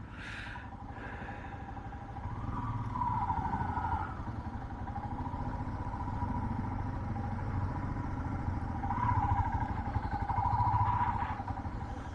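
Motorcycle engine running at low speed on a rough, broken road, its note rising and easing off twice.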